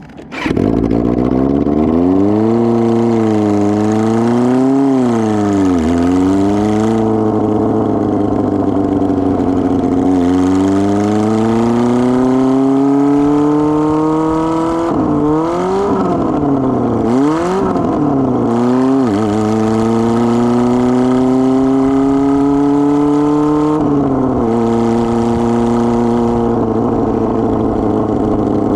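Kawasaki ZR-7's air-cooled inline-four running without its exhaust muffler while the bike is ridden. The revs climb and fall through several gear changes, with one long pull through a gear near the middle and a run of quick drops after it.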